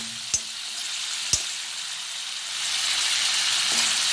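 Prawns sizzling in hot oil in a kadai, the spatula knocking against the pan twice in the first second and a half as they are stirred. The sizzle grows louder about halfway through.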